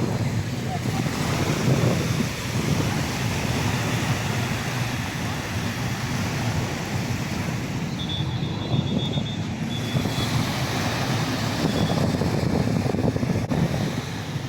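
Wind buffeting the microphone in a low rumble over the wash of sea surf.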